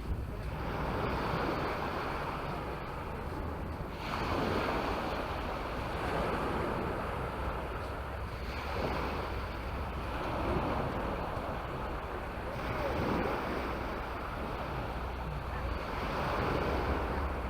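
Sea waves breaking on a beach, the wash swelling and fading about every four seconds, with wind rumbling on the microphone.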